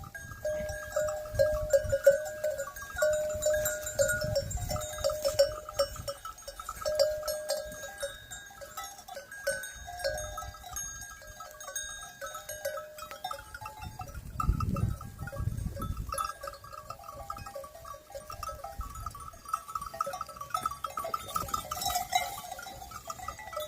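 A flock of sheep with their neck bells ringing and clinking unevenly as the animals move.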